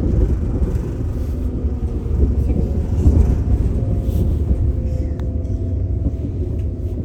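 Passenger train running along the track: a steady, loud low rumble.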